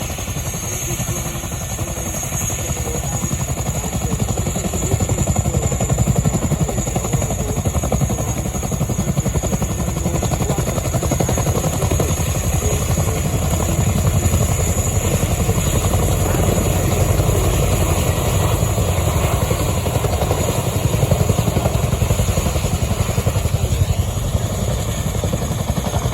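RAF Chinook tandem-rotor helicopter with its twin turboshaft engines running, its rotors thudding in a rapid, steady beat as it takes off. The sound grows a little louder about five seconds in.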